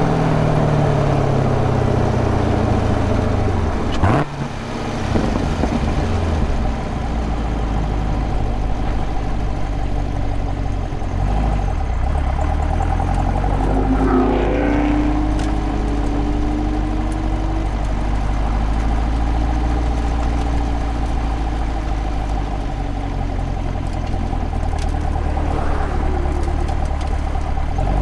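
The supercharged 6.2-litre V8 of a 2023 Camaro ZL1 with a six-speed manual: its revs fall over the first few seconds, there is a sharp knock about four seconds in, and then it runs with a steady low rumble at low revs.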